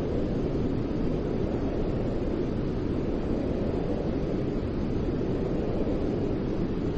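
Steady white noise: an even, deep rushing hiss with most of its weight low, without any change or break.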